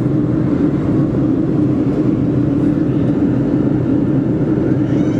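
Steady cabin drone of a Boeing 737-400 airliner in descent: its CFM56-3 jet engines and the rush of air along the fuselage, an even, loud noise with a low hum running through it.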